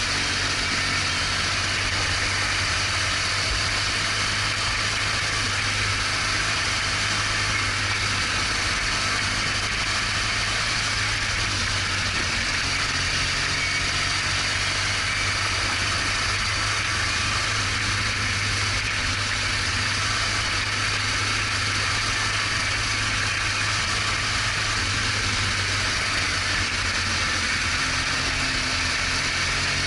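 BMW R1200GS Adventure's boxer-twin engine running steadily under way, over a constant rushing noise.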